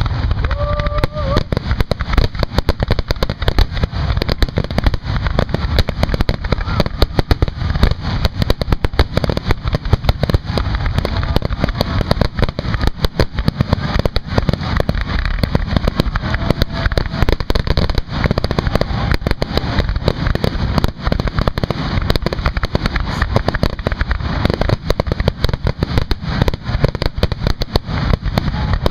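Fireworks going off in a rapid, unbroken barrage of bangs and crackles over a deep rumble.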